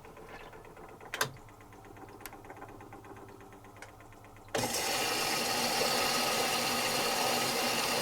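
Zanussi FC1000 compact washing machine mid-programme, its drum motor at rest: a sharp click about a second in and a couple of faint clicks after it. About four and a half seconds in, a steady hissing noise starts suddenly and holds.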